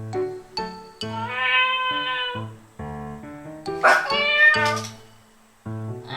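A woman imitating a cat's meow: two drawn-out meows, the first about a second in and the second about four seconds in, over background music.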